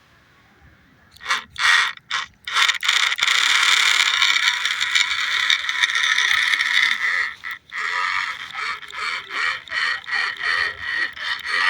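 Remote-control toy tractor's small geared electric motor running with a gear whine: a couple of short bursts, then steadily for about four seconds, then in quick stop-start pulses.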